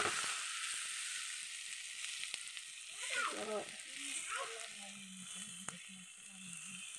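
Shredded carrot, cabbage and peas sizzling in oil in an aluminium kadai as a ladle stirs them. The sizzle slowly fades.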